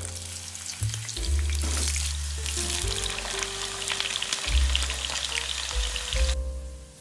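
Potato wedges sizzling and crackling in hot oil in a frying pan. The sizzle grows louder about halfway through, then cuts off suddenly near the end. Background music with a slow bass line plays underneath.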